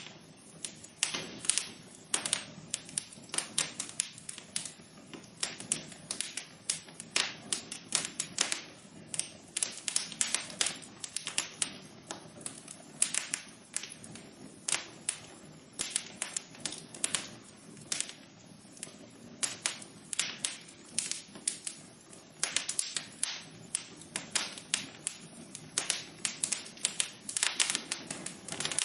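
Wood fire crackling in a fireplace: a dense, irregular run of sharp pops and snaps, several a second and uneven in loudness, over a faint steady rush of the flames.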